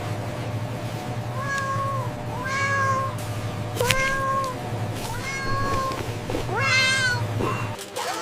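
A cat meowing repeatedly: several short meows, then one that rises to a higher pitch about seven seconds in.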